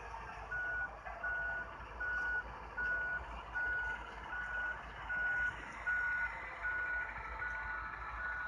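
Waste Management garbage truck's reversing alarm beeping: a single steady-pitched beep repeating evenly about every three-quarters of a second as the truck backs up.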